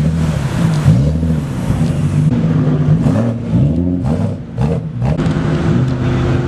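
Car engine being revved in a series of short blips, its pitch rising and falling again and again over a steady running note.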